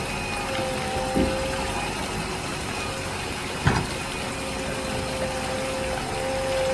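Small DC motor water pump running with a steady whine, interrupted by two short knocks, one about a second in and a louder one near the middle.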